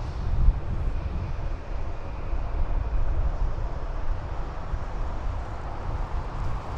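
Wind buffeting the microphone, a gusty low rumble over a steady hiss.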